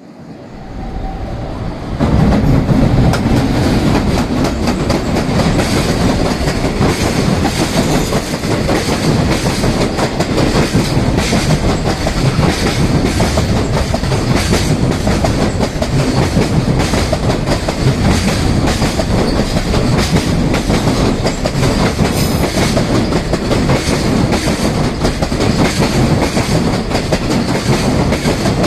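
Freight train hauled by an EF210 electric locomotive passing at speed, its wagons clattering steadily over the rail joints. It comes in loud about two seconds in.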